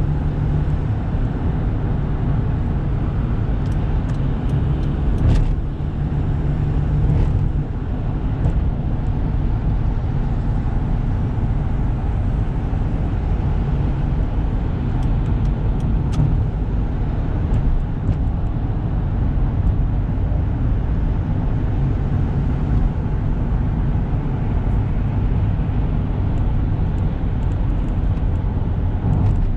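Toyota 1KZ-TE 3-litre turbo diesel pulling a van along the road, with a steady low engine rumble and road noise. About six to eight seconds in the level dips twice briefly and the engine note changes, like gear changes.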